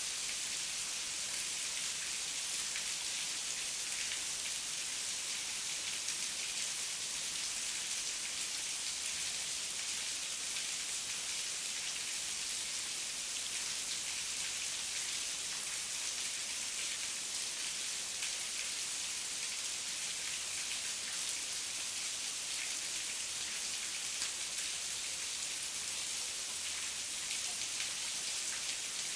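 Steady heavy rain falling, a dense even hiss of drops with fine pattering ticks and no thunder.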